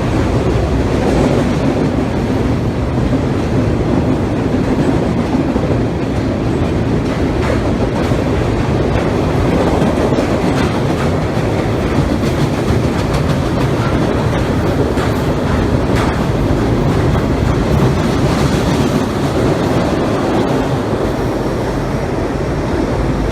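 Freight train cars rolling over a railroad trestle bridge: a steady heavy rumble with the rhythmic clickety-clack of wheels on rail joints, easing slightly near the end.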